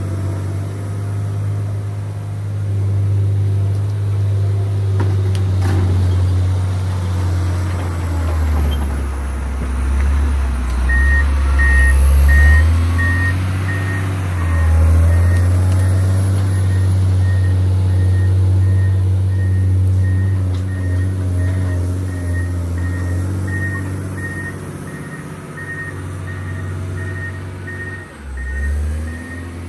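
John Deere 670 GP motor grader's diesel engine running steadily, its note dropping lower for a few seconds in the middle. About a third of the way in, the grader's reversing alarm starts beeping at a steady rate and keeps on.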